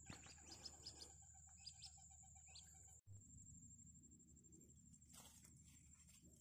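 Near silence: faint bird chirps in the first second or two over a low hum and a steady high whine, with a brief dropout about three seconds in.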